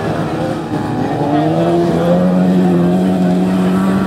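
Several car engines revving hard as the cars race around a dirt track. From about a second and a half in, one engine holds a steady high pitch.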